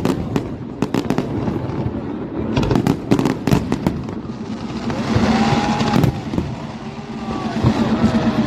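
Aerial fireworks: a rapid string of sharp bangs and crackles for about four seconds, then a fizzing, crackling hiss with a few whistling glides, and a steady low hum near the end.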